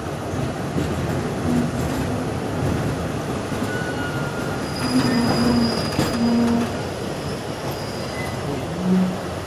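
Passenger train running along the track with a steady rumble, with thin high wheel squeals in the middle.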